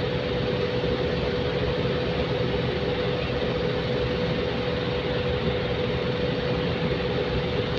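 Steady rumble of railway traffic with a constant mid-pitched hum running through it, holding the same level throughout.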